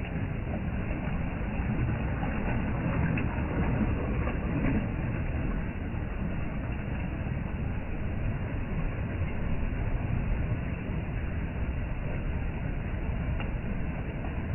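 Sea waves washing in a steady low rumble, swelling slightly a few times.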